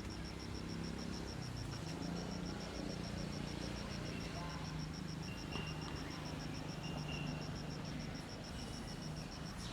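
Outdoor ambience: a high, rapid insect chirp pulsing about seven times a second without a break, over a low steady drone, with a few short high chirps.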